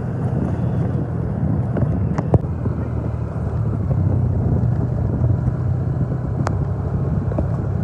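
A vehicle engine running steadily at an even speed, with a few faint clicks over it.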